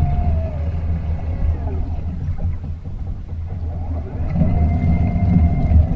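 Large industrial vacuum cleaning machine running: a steady low engine drone with a whine that rises, holds and falls, once at the start and again about four seconds in.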